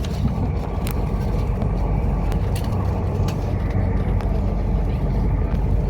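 Inside a moving passenger train carriage: a steady low rumble of the train running on the rails, with a few sharp light clicks and rattles scattered through.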